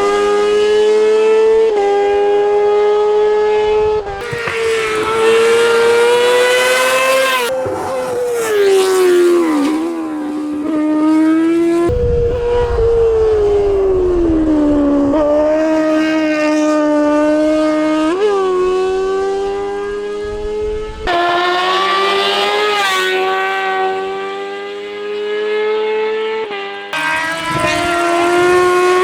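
Race car engine at high revs during a hill-climb run, its pitch climbing and dropping as it works up and down through the gears. There are sudden breaks in the note several times, about 2, 4, 7, 12, 18, 21 and 27 seconds in.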